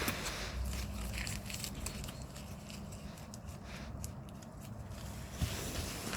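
Scattered sharp crackles and rustling over a low rumble, with a single thump near the end.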